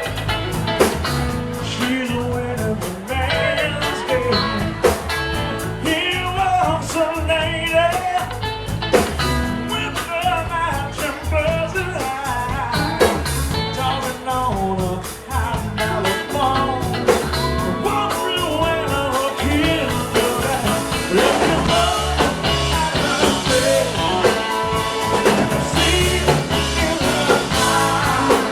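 Blues-rock band playing live: drums, bass, electric guitar and keyboards, with a lead line that bends in pitch over a steady beat.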